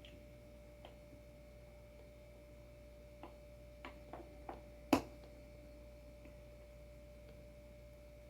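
A few light clicks and then one sharper knock about five seconds in, over a steady faint hum. These are small hard objects being handled or set down.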